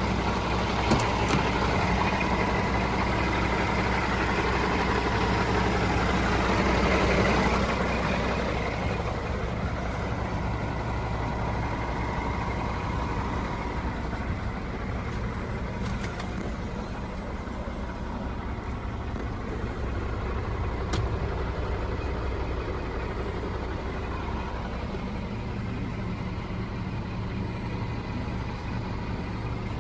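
Scania R 480 truck's six-cylinder diesel engine running steadily, a little louder for the first eight seconds or so before settling lower.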